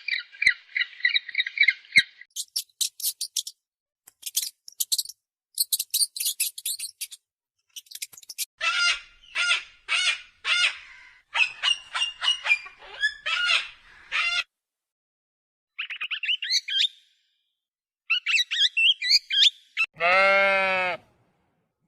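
A string of bird calls in turn: a fast chattering, then very high thin chirps, then a run of repeated squawks, several a second, and more chirps. Near the end a long single bleat.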